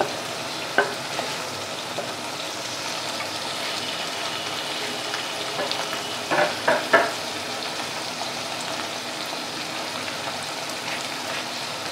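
Chicken pieces with tomato and ginger sizzling steadily as they fry in a pot. A few short knocks of the stirring spoon against the pot come through, loudest about six to seven seconds in.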